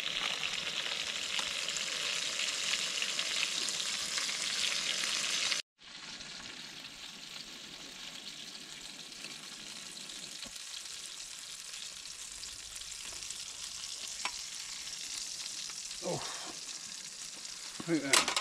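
Burgers sizzling in a frying pan on a camp stove, a steady frying hiss. It breaks off abruptly about six seconds in and comes back quieter, with a few light knocks near the end.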